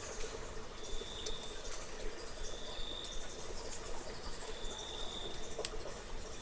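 Cricket-like insect trilling in repeated high, steady bursts, each about a second long with short gaps between, over scattered faint clicks and ticks of the cave, with one sharp click near the end.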